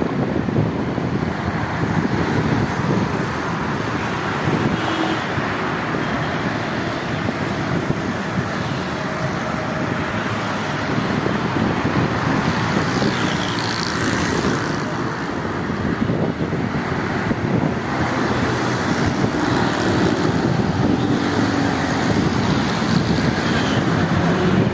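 Steady road traffic noise, with wind buffeting the microphone.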